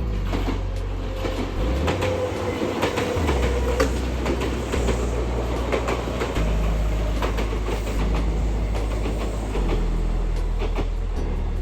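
Kintetsu Minami-Osaka Line electric train running past, its wheels clacking over the rail joints in a run of irregular knocks over a steady rumble.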